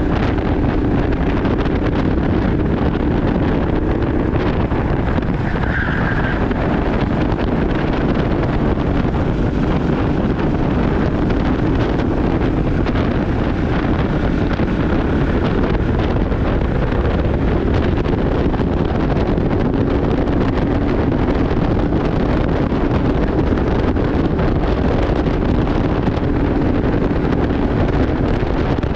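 Steady wind rushing over the microphone, with a constant low rumble underneath and no break or change.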